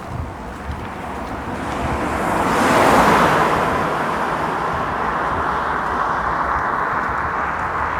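A car passing by with tyre and engine noise, swelling to its loudest about three seconds in, then fading into a steady hiss.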